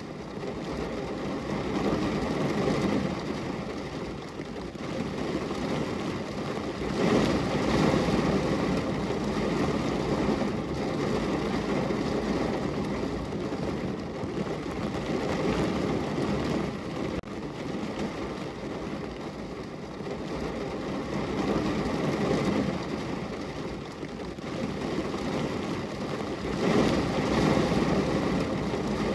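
Steady rain falling on a window, an even hiss of drops with a low rumble underneath that swells louder twice, about seven seconds in and near the end.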